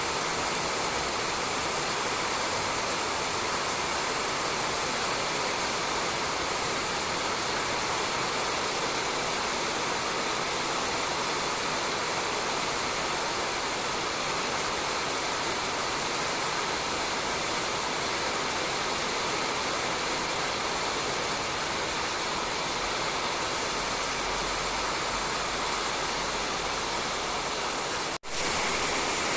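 Steady rain falling on a roof, an even, unbroken hiss, with a momentary break near the end.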